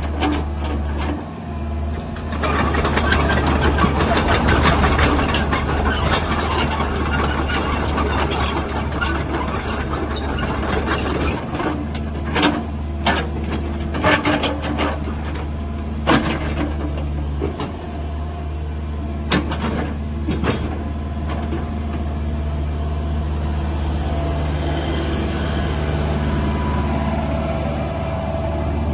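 Cat 305 mini excavator's diesel engine running steadily, with a busier stretch early on and sharp knocks and clanks scattered through the middle.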